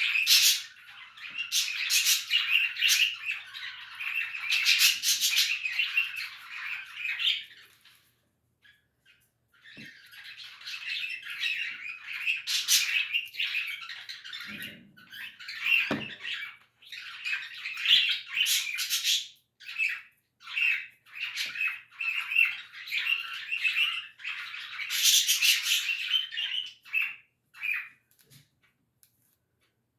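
Birds chirping and squawking in long bouts of busy chatter, with a pause of about two seconds some eight seconds in.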